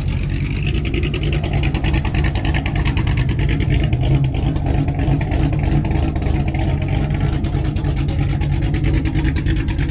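A car engine running steadily with a low, even exhaust rumble made of fast, regular pulses.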